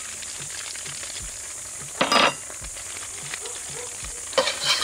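Oil and egg sizzling steadily in a cast-iron wok over a gas burner, with a louder rush of sizzling about two seconds in as garlic goes into the hot oil. Near the end a metal spatula scrapes and stirs against the wok.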